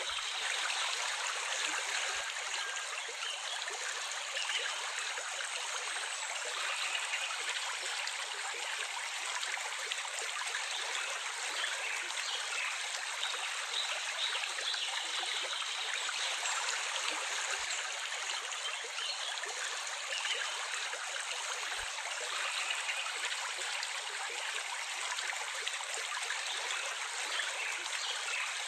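Water flowing steadily in a stream, an even rushing with no low rumble.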